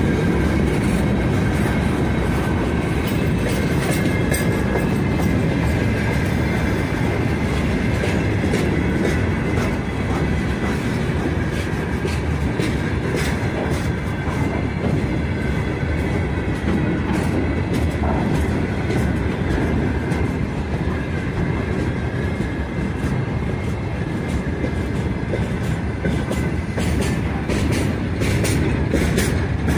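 Freight train's gondola wagons rolling past at close range: a steady heavy rumble of steel wheels on rail with frequent wheel clacks and a faint steady high whine over it.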